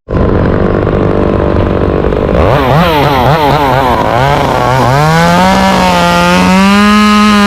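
Chainsaw revved in quick bursts, its pitch swinging up and down several times, then held at a steady high full-throttle whine through the second half.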